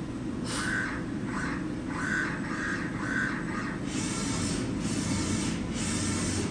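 Samsung MCV-50 CNC vertical machining center running: a steady low hum broken by repeated short stretches of mechanical whirring.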